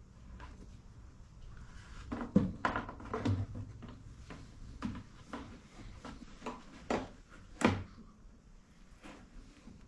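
Irregular clicks and knocks of tools and parts being handled during motorcycle suspension work, a dozen or so separate strikes, the loudest a little after two seconds in and another late on.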